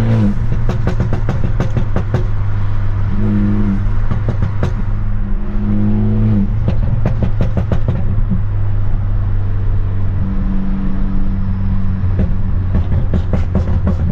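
Straight-piped, Stage 2+ tuned BMW F30 328i's turbocharged four-cylinder exhaust droning under way, with throttle changes and several clusters of rapid crackles and pops from the exhaust.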